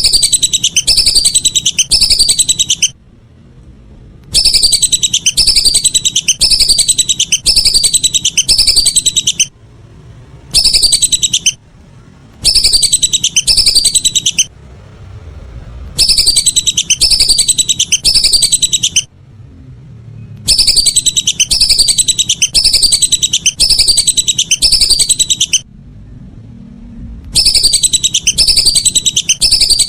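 Lesser whistling duck (belibis) call recording: loud runs of rapidly repeated high, falling whistles, each run lasting one to five seconds and stopping abruptly before the next, as in an edited lure-call loop.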